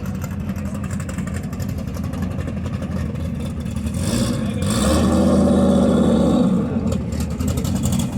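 A car engine running with a steady low rumble, growing louder for a few seconds from about halfway through, then easing off.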